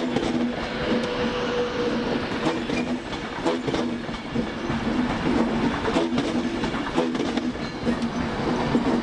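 A train moving along the platform, with a steady hum and irregular clicks and clacks from its wheels over the rail joints.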